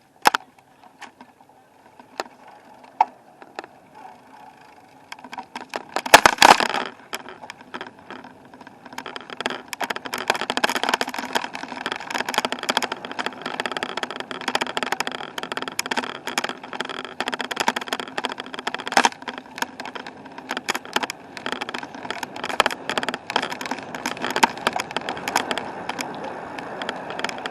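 Bicycle being ridden, with rattling, clicking and rolling noise that builds up about nine seconds in and keeps going. A loud, short bump or rustle comes about six seconds in.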